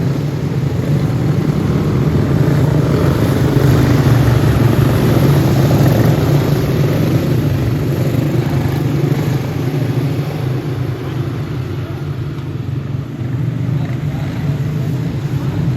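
Racing go-kart engines, Briggs & Stratton Animal single-cylinder four-strokes, running at speed as a continuous drone. It swells a few seconds in and eases off a little past the middle as karts pass.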